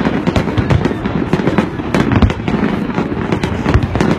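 Aerial fireworks going off in a rapid, continuous barrage: many sharp bangs and crackles a second over a low rumble.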